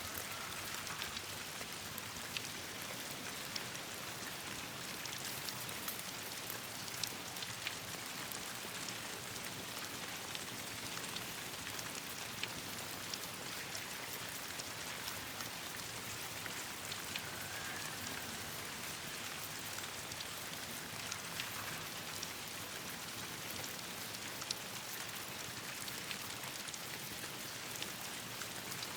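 Steady rain falling with a campfire crackling: an even hiss of rain with scattered sharp pops throughout.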